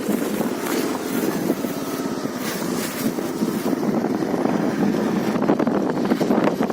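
Wind buffeting the microphone on a moving motorcycle, a steady rough rush with the bike's running noise underneath.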